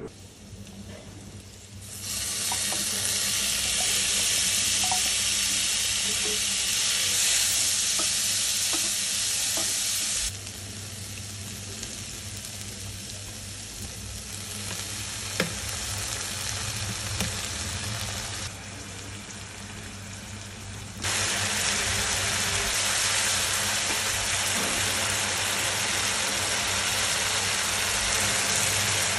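Chicken, prawns and chopped vegetables sizzling and being stirred in a frying pan. The sizzle drops to a lower level from about ten to twenty seconds in, with a few sharp clicks, then comes back loud.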